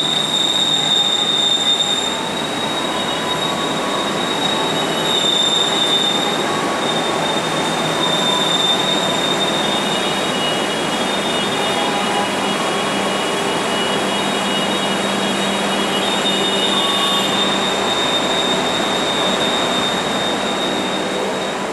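Passenger train coaches rolling slowly past along the platform, with a steady rumble of wheels on rail and a high, thin wheel squeal that fades and returns.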